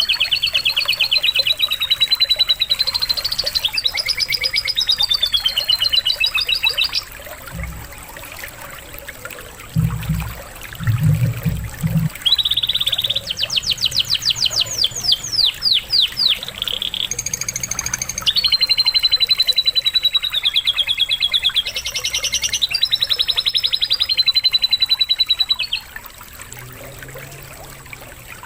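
Canary singing in long, fast trills and rolls with lovebird-style fill phrases, in three runs of several seconds each with pauses between. A steady trickle of running water plays underneath, and a few low thumps come about ten seconds in.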